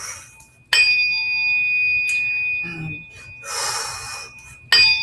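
Tuning fork struck twice, once under a second in and again near the end, each strike ringing on in a steady high tone that fades slowly, with a brief hiss between the strikes.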